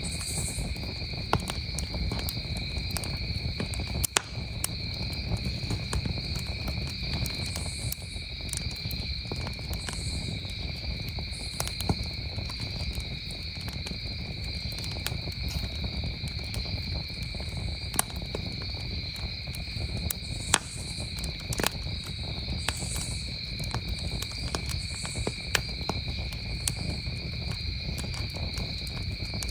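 Wood campfire crackling, with scattered sharp pops at irregular intervals over a low rumble, while crickets trill steadily and high-pitched without a break.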